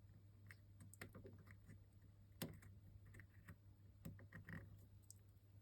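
Faint, scattered light clicks and taps of small RC truck suspension parts being handled as a stiff coil spring is compressed and fitted.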